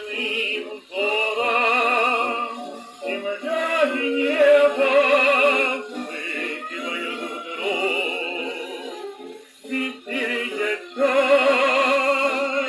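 A 78 rpm shellac record plays music from a Hawaiian ensemble: a melody that wavers in pitch, played in phrases with short breaks. The sound is thin, with no bass.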